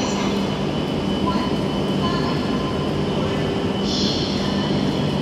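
Steady hum of a Hayabusa Shinkansen trainset standing at the platform, with steady low tones under the station noise, and a higher hiss that comes in about four seconds in and stops near the end.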